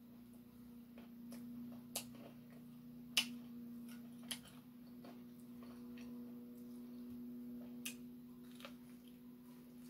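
Eating crispy fried chicken: a few sharp clicks and crackles of chewing and lip smacks, the loudest about three seconds in, over a steady low hum.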